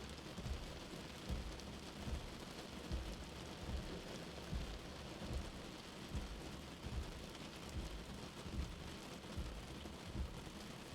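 Steady rain with a soft, low heartbeat thumping under it a little more than once a second.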